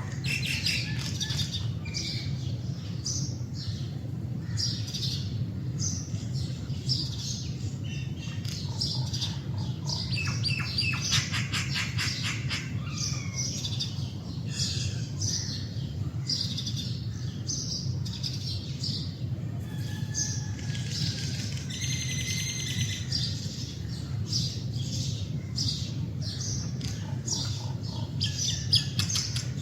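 Common myna calling: a busy run of short chirps, whistles and squawks, with rapid rattling series of repeated notes about ten seconds in and again a little past twenty seconds. A steady low hum runs underneath.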